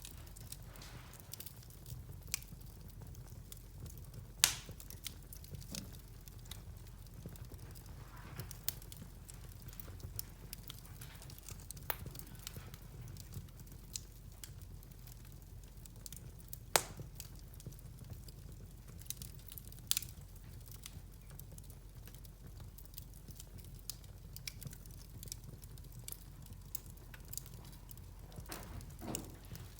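Wood fire crackling in a fireplace, with irregular sharp pops and snaps, a few much louder ones about four and a half, seventeen and twenty seconds in.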